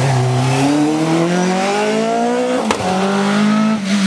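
Rally car engine at full throttle, its pitch climbing steadily through one gear, then a sharp crack and drop in pitch at the upshift about two-thirds through, climbing again before it starts to fall away at the very end.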